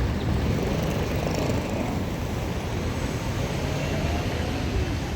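Jet aircraft engines running, a steady low rumble with a hiss above it.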